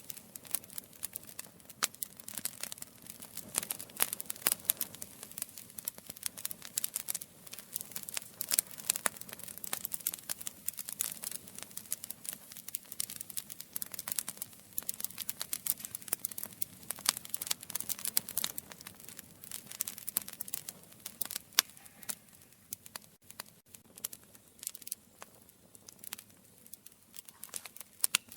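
Campfire crackling: a dense run of sharp pops and snaps from burning wood, thinning out a little over the last several seconds.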